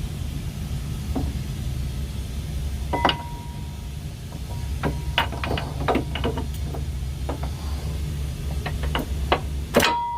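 Sharp metal clinks and knocks of a new brake pad being slid and seated into a Prevost coach's front disc brake caliper, a dozen or so hits from about three seconds in, some ringing briefly, the loudest just before the end. A steady low rumble runs underneath.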